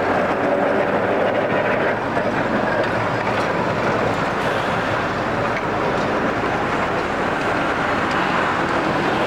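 A rail vehicle running, a steady even noise with no break.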